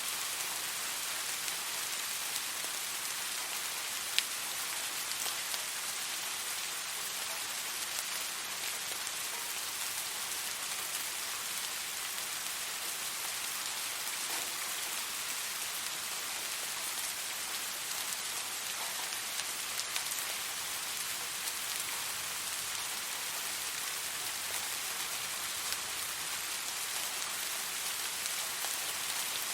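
Steady rain falling, an even hiss with now and then a single sharp drop tick, the loudest about four seconds in.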